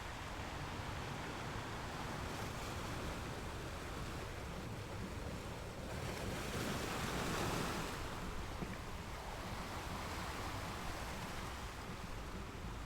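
Ocean waves washing on a shore, a steady rush with one wave swelling louder about six seconds in and falling back a couple of seconds later.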